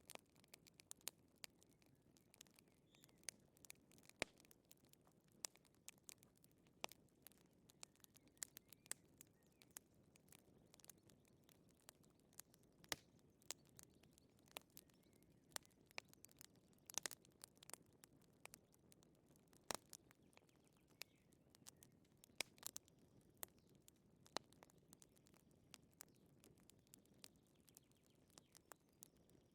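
Wood fire in a fireplace crackling softly: irregular sharp pops and snaps, a few louder ones, over a faint low rustle.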